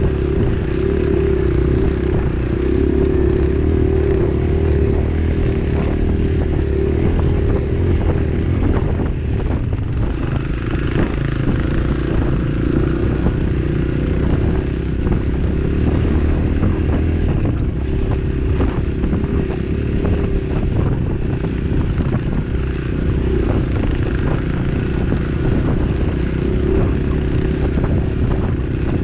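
Dirt bike engine running steadily while riding, with frequent knocks and rattles from the bike over rough ground.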